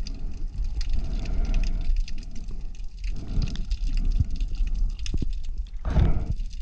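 Underwater sound picked up by a GoPro on a night dive: a steady low rumble of moving water with a constant faint crackle of clicks, and surges of water noise about three and six seconds in.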